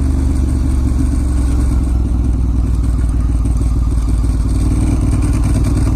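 Ducati Monster S2R1000's air-cooled L-twin engine running at a steady low speed while the motorcycle is ridden.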